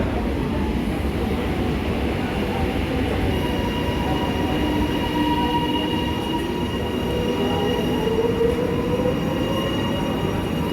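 Electric suburban train moving along the platform: a steady rumble of wheels on rail with thin high squeal tones, and a whine that rises in pitch over the second half.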